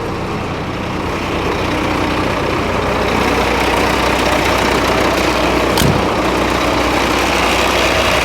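Scania P340 truck's diesel engine idling steadily, growing a little louder over the first few seconds, with a single brief click about six seconds in.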